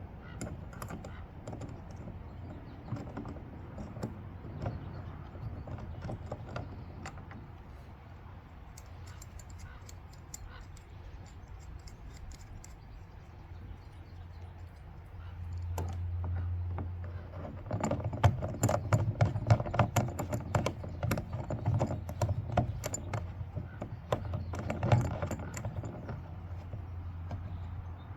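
Clicking and rattling of small metal hardware and hand tools being handled, sparse at first and busiest in the second half, with a low hum joining about halfway through.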